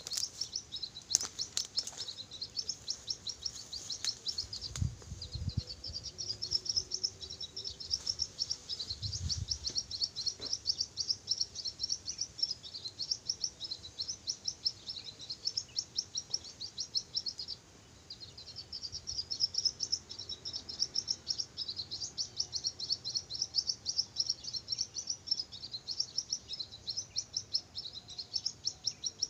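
High, rapid bird chirping that goes on almost without pause, broken once for about a second a little past halfway. There are two low rumbles in the first ten seconds.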